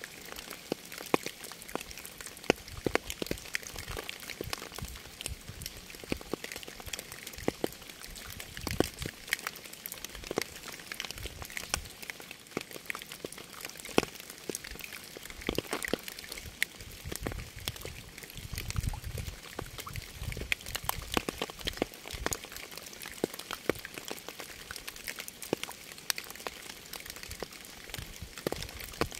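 Rain falling steadily: a continuous hiss with many individual drops striking close by as sharp, irregular ticks.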